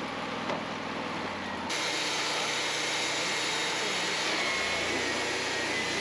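Wood-Mizer LT40 portable band sawmill running, a steady mechanical hiss and hum. About two seconds in the sound turns brighter and hissier.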